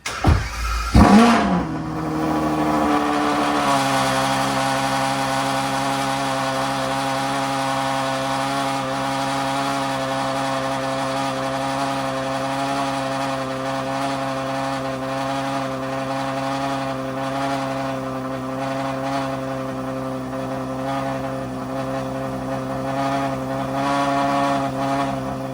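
Straight-piped 6.5-litre V12 of a Stage 2 Ferrari 812 Superfast starting up: a loud burst as it fires about a second in, the revs falling back over the next couple of seconds, then a steady idle.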